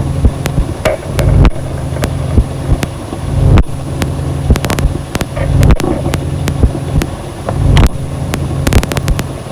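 Ambient noise music: a dense low droning rumble that swells about every two seconds, peppered with sharp clicks and crackles, with a faint steady high tone above.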